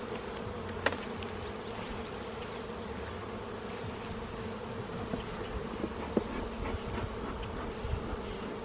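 Honeybees buzzing around an open hive, a steady hum, with a couple of brief sharp clicks about a second in and near six seconds.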